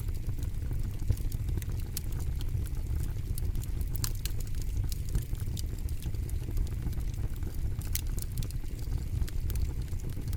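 Campfire crackling: irregular sharp pops and snaps over a steady low rumble of the flames.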